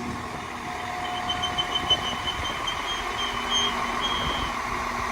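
Class 195 diesel multiple unit arriving at the platform, its engine running, with thin high-pitched tones over it.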